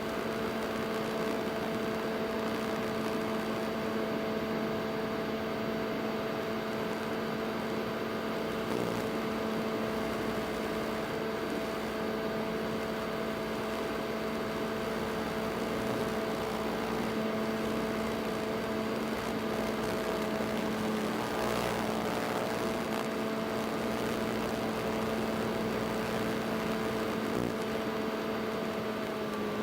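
FPV quadcopter's motors and propellers giving a steady multi-tone hum, with small shifts in pitch as the throttle changes.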